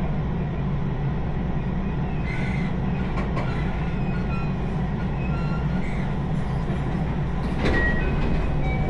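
Passenger train running, heard from inside the carriage: a steady low rumble throughout. A louder, sharper sound with a brief high squeal comes about three-quarters of the way in.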